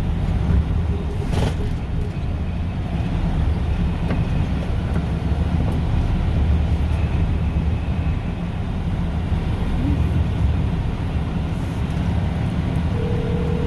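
Mack snowplow truck's diesel engine running steadily, heard from inside the cab as a constant low rumble.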